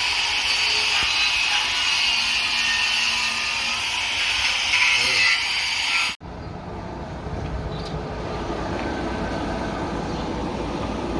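Machinery noise in two separate shots: a loud, hissy mechanical noise that cuts off sharply about six seconds in, then a quieter, steady low rumble.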